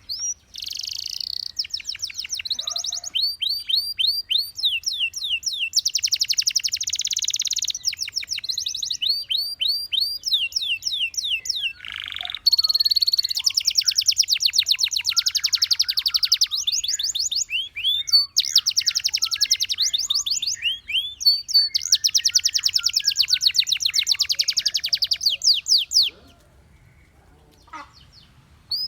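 Canary singing a long song of fast trills: quick runs of repeated notes mixed with sweeping whistles, stopping near the end.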